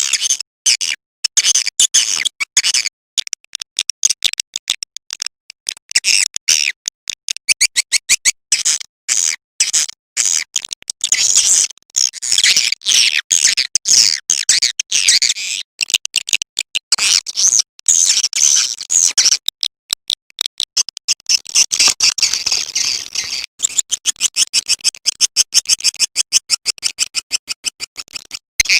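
Edible-nest swiftlet calls played as a recorded lure ('suara panggil') to draw swiftlets into a nesting house: rapid, high-pitched chirping twitters in quick strings, coming faster towards the end.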